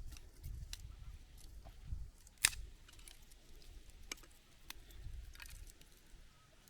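Dry kindling (thin wood splinters and sticks) being handled and stacked for a fire: scattered small clicks and snaps, with one sharp crack about two and a half seconds in.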